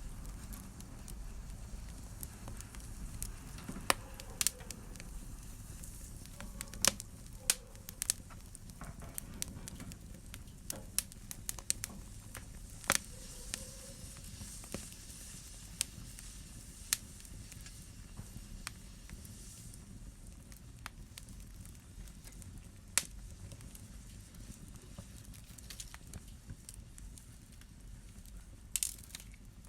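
Wood fire burning in a fireplace: a low steady rumble of flames with irregular sharp crackles and pops, a few of them louder snaps.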